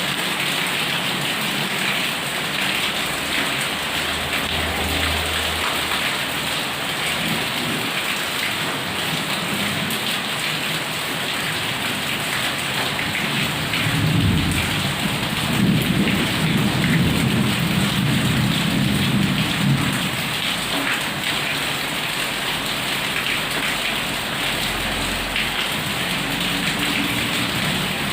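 Heavy rain pouring steadily, with a long roll of thunder rumbling for several seconds from about halfway through.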